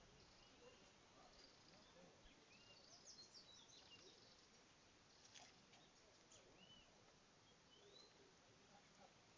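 Near silence: faint background hiss with a few scattered short bird chirps, and some faint clicks about three and five seconds in.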